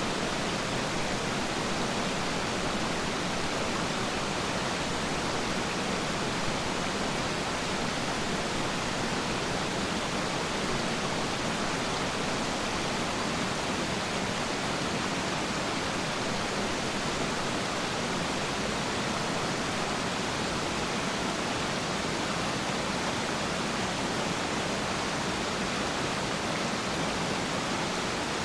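Peiran Falls waterfall rushing steadily, an even, unbroken hiss of falling water.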